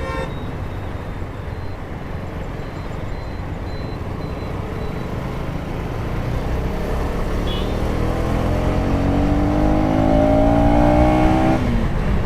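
KTM 250 Duke's single-cylinder engine running in traffic, then accelerating from about six seconds in, its note rising steadily for several seconds before the throttle is closed near the end. Wind and road noise run underneath.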